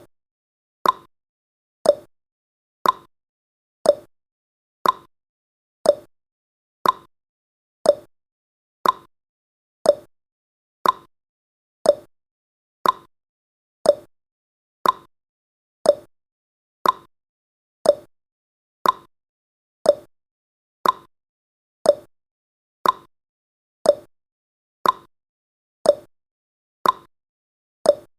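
Timer's clock-tick sound effect: one short, sharp tick every second, evenly spaced, counting down the seconds.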